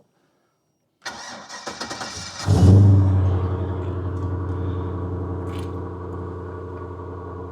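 8.1L Vortec 8100 V8 cranking on the starter for about a second and a half, then catching with a loud flare and settling into a steady idle. It exhausts through dual 2.5-inch pipes merging into a single 3.5-inch pipe and a Duramax Ultraflow welded muffler.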